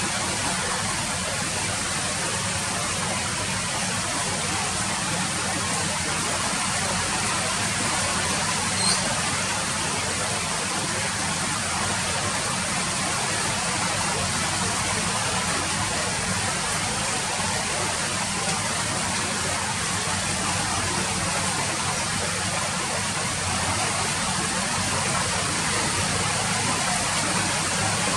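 Steady rain falling, an even hiss with no change in strength, with one sharper tap about nine seconds in.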